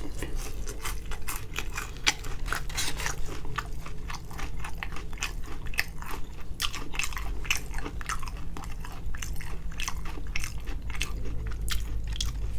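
Close-up chewing of crispy fried chicken wings: a fast run of crunches, several a second, without pause.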